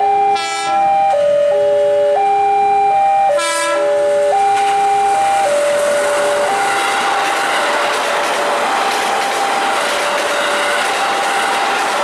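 Electronic level-crossing warning tones stepping up and down in pitch, cut by two short train horn blasts about half a second and three and a half seconds in. From about five seconds in, the rushing, rattling noise of a passing electric commuter train grows as the tones fade.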